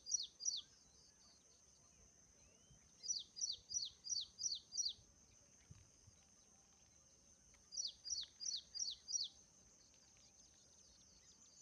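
A songbird chirping in three bursts of five or six quick, sharply falling notes each, a few seconds apart, over a steady high hiss.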